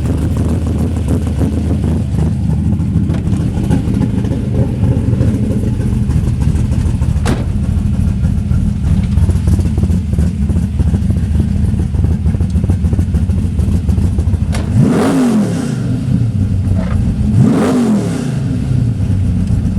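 A 427 cubic-inch small-block Chevy V8 with headers runs with a deep, steady rumble. Near the end the throttle is blipped twice, the pitch rising and falling each time.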